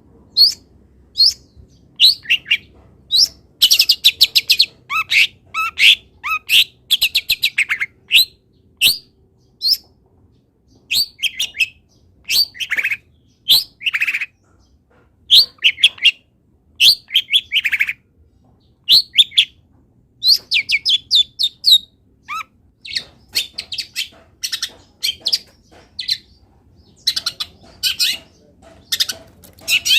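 Long-tailed shrike (cendet) singing loudly: a varied stream of short sharp chirps and rapid trills, delivered in quick phrases with brief pauses between them.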